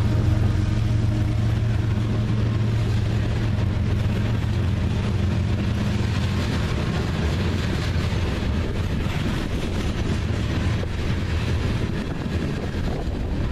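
Freight train passing on the line. A low diesel locomotive engine drone fades over the first half, leaving the steady rumble of rolling cars.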